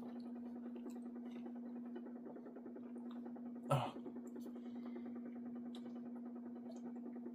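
A steady low hum runs throughout, with faint small clicks and one sharp knock about three and a half seconds in.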